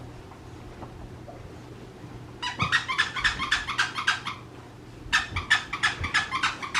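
French Bulldog puppy yapping in quick high-pitched yips, two bouts of several a second, the first starting a little over two seconds in and the second about five seconds in.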